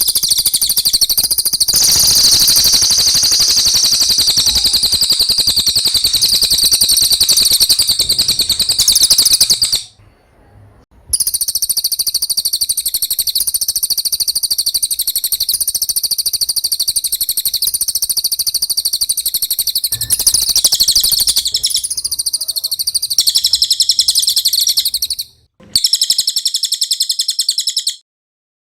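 Cililin songbird singing long, rapid, very high-pitched chirping trills, with brief pauses about ten seconds in and near the end. It is a clean recording used as a master song for training caged birds.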